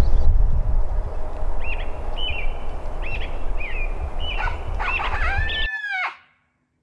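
Wild birds chirping, short rising-and-falling calls repeated over a steady low rumble, ending in a louder falling call before the sound cuts off abruptly.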